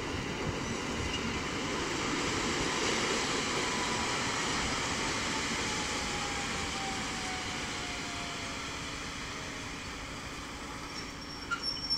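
Electric multiple unit rolling along the track and slowing to a stop, a rumble of wheels on rails that swells and then fades. Over several seconds in the middle a whine falls slowly in pitch as the train brakes, with a few clicks near the end.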